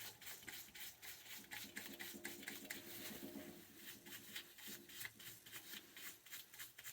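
Rapid rubbing and scraping strokes, about four a second, as dirt and lint are scrubbed off oil burner parts.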